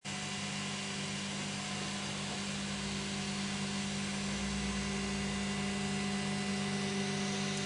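Cetus 3D printer running: a steady mechanical hum of several held tones over a soft hiss of motors and fans.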